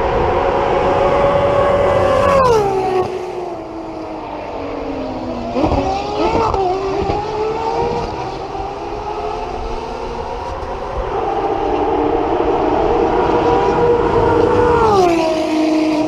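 Ferrari FXX Evolution's V12 engine at high revs. Its note holds steady, then falls sharply and drops away about two and a half seconds in. A fainter note wavers up and down around six seconds, then climbs to another long high hold that falls away again near the end.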